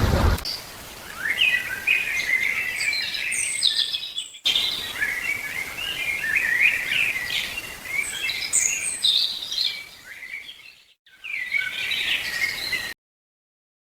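Birds singing, a busy run of quick high chirps and trills, with two brief breaks about four and eleven seconds in; it cuts off suddenly near the end.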